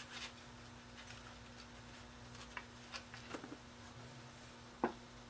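Faint scattered light clicks and taps over a steady low hum, with one sharper click near the end.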